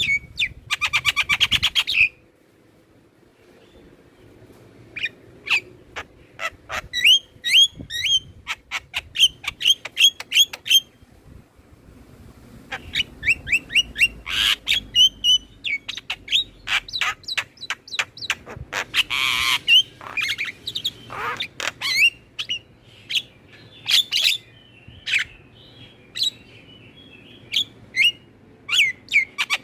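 Javan myna singing: a string of sharp whistled chirps and squawks, with fast chattering runs in the first two seconds and again at the end, and a harsh rasping call about two-thirds of the way through.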